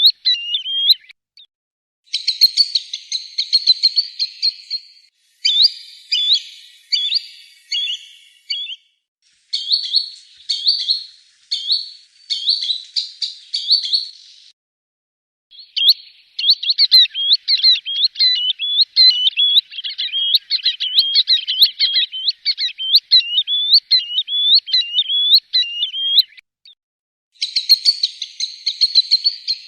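Green sandpiper calling: rapid series of high, upward-sweeping whistled notes, in bouts of a few seconds broken by short pauses, with one long bout of about ten seconds in the second half.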